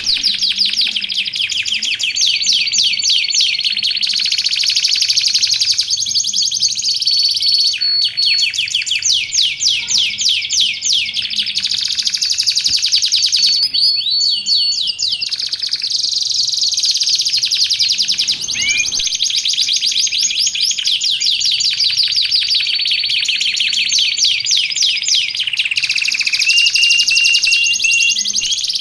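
Domestic canary singing continuously: long rapid trills and rolls with held whistled notes, pausing briefly now and then.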